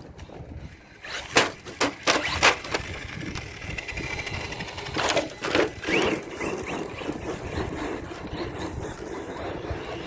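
Losi Rival MT10 RC monster truck driving hard over rough ground: its electric motor whines and rises in pitch, with a cluster of sharp knocks from the truck hitting the ground a second or two in and two more about five seconds in.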